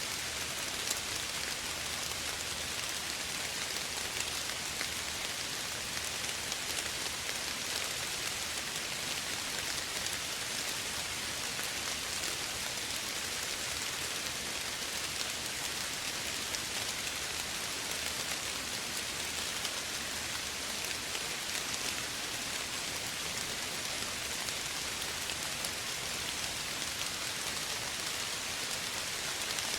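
Steady soft rain falling, an even hiss with many small drop patters.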